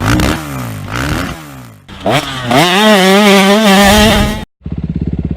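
Honda CRF250RX dirt bike's four-stroke single revving, its pitch rising and falling with the throttle, then climbing to a high rev held for about two seconds. After a sudden break it runs at a low, rapid, even pulse near the end.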